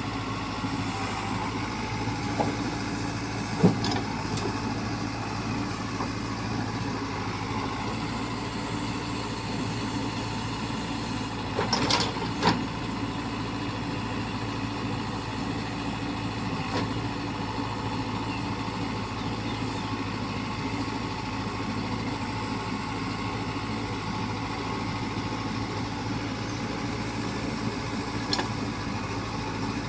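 Heavy vehicle's engine idling steadily, with a couple of brief knocks about four seconds in and around twelve seconds.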